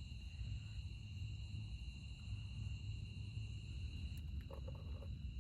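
Night insect chorus of crickets trilling steadily in high, unbroken tones, over a low rumbling background, with a few brief clicks near the end.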